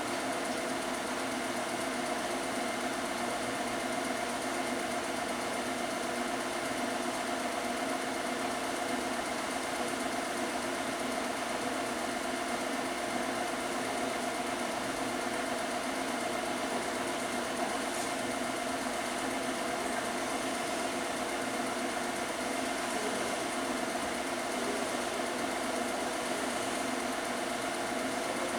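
Steady mechanical hum of a running motor, even and unbroken, with several steady tones over a hiss.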